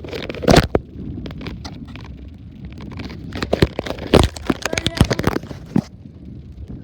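Irregular knocks and clatters on an iPad taped to bicycle handlebars, the loudest about half a second in and around four seconds in, over a steady low rumble from the moving bike.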